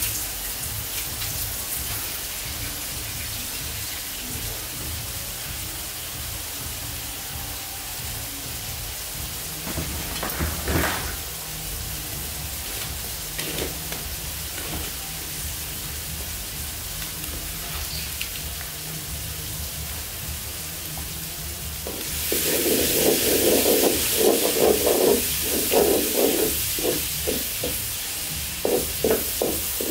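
Onions, chilli flakes and dried fish frying in an iron wok over a wood fire, with a steady low sizzle. About 22 seconds in, a spatula starts stirring them, scraping against the pan in repeated strokes, and the sizzling grows louder.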